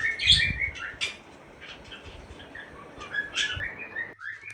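A flock of budgerigars chattering and chirping, busiest in the first second and then in scattered chirps, cutting off abruptly near the end.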